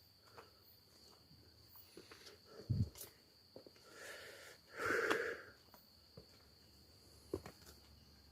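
A steady high-pitched insect trill, likely crickets, goes on throughout. A low thump comes a little under three seconds in, and a breathy rush about five seconds in.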